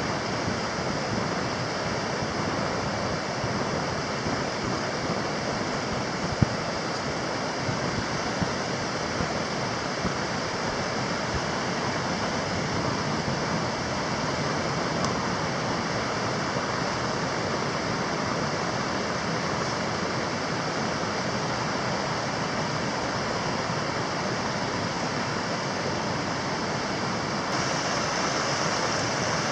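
Steady rushing of running water, like a stream, with a couple of brief sharp clicks about six and eight seconds in.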